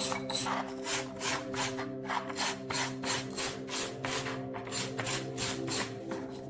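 Hand scraping strokes on a rusty part, back and forth at about three strokes a second, over a steady low drone. The strokes stop at the very end.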